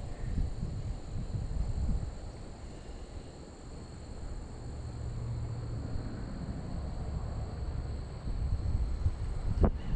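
Wind buffeting the microphone in gusts, a low rumble with louder blasts near the end.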